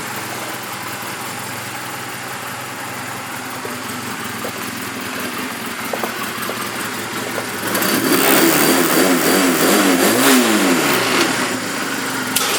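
2004 Honda Rebel 250's small air-cooled parallel-twin engine idling steadily, fully warmed up and running well. About eight seconds in the throttle is opened: the revs rise and fall for a few seconds, then drop back to idle.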